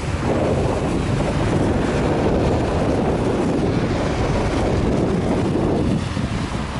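Strong wind buffeting the microphone, a loud continuous rumble with a brief lull near the end.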